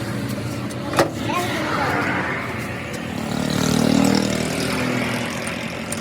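A vehicle engine runs steadily and swells in the middle, with one sharp knock about a second in.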